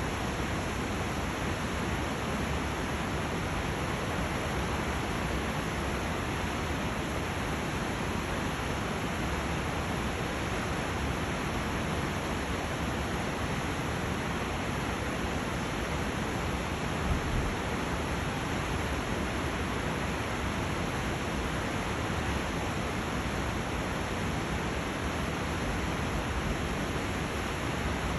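Steady rushing of whitewater rapids.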